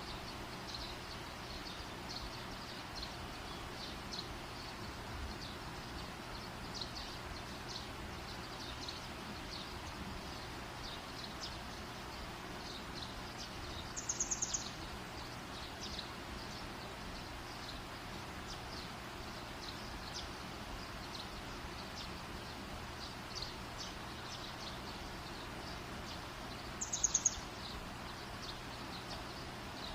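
Campfire burning with a steady hiss and many small, faint crackles. About halfway through and again near the end, a short burst of four or five rapid high chirps stands out as the loudest sound.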